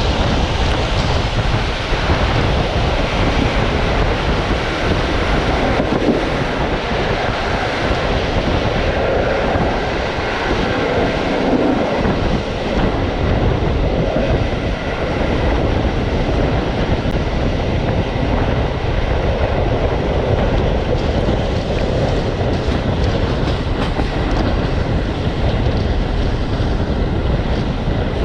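A passenger train running along the track, heard from a carriage window: a steady, loud rumble and clatter of wheels on the rails.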